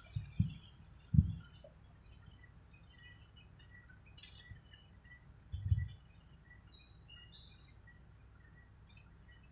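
Outdoor ambience of insects trilling steadily at a high pitch and birds chirping now and then, with a few low thumps, three close together near the start and one about halfway through.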